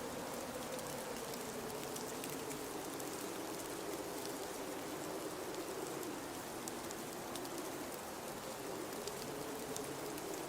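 Blizzard wind blowing steadily, with a low moan that slowly wavers in pitch. Faint scattered ticks run through it.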